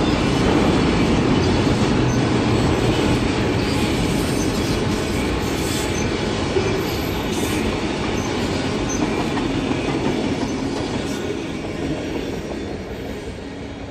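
Train rolling past on the track: a steady rumble of rail cars and wheels that slowly fades toward the end.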